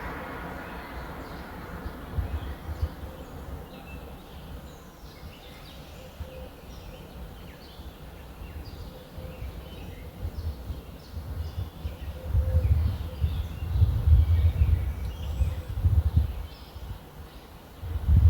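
Small birds chirping and twittering in short, scattered calls. Low rumbling gusts of wind buffet the microphone, loudest in the second half and again at the very end.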